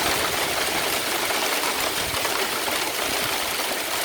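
Hailstones pelting down in a sudden heavy shower, a dense, steady rattle with no let-up.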